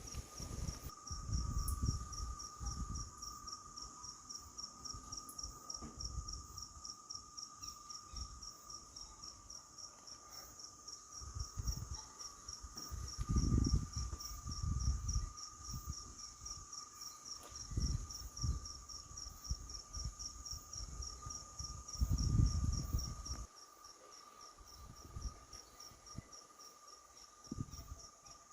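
Crickets chirping in a steady, evenly pulsed high trill, with a second steady insect tone lower beneath it. Irregular low rumbling bursts come and go over it, loudest a little before the middle and again near the end.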